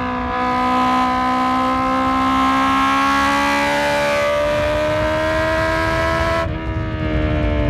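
Honda CB650F's inline-four engine pulling steadily in gear, its pitch climbing slowly as the bike gains speed. About six and a half seconds in, the throttle eases off: the pitch drops slightly and the hiss of the intake and exhaust falls away.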